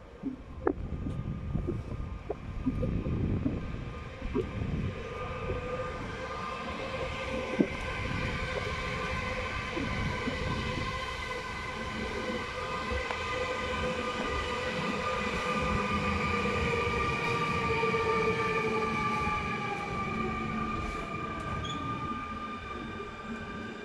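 A train moving through a railway station, with knocking and clatter from the wheels over the rails at first, then a long high squeal from the wheels and brakes that slowly falls in pitch.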